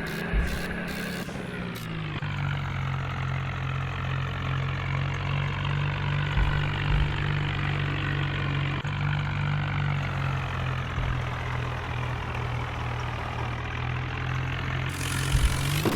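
Swaraj 744 tractor's diesel engine running steadily. Its pitch drops slightly about two seconds in, then holds steady.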